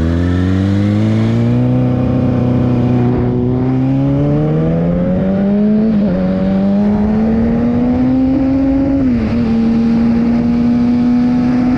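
Kawasaki ZX-6R's inline-four engine pulling steadily up through the revs under riding load. The pitch dips slightly about six seconds in and drops more clearly near nine seconds at a gear change, then climbs again.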